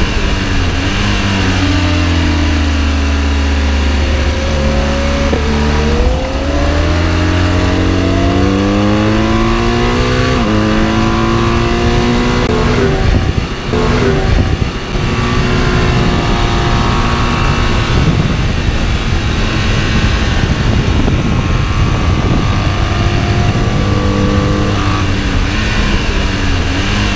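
Sport motorcycle engine at speed: the revs fall, then climb again with upshifts about six and ten seconds in, under heavy wind rush on the microphone.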